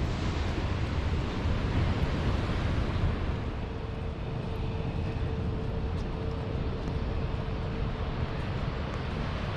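Wind buffeting the microphone, a steady low rumble, with a faint steady hum coming in through the middle.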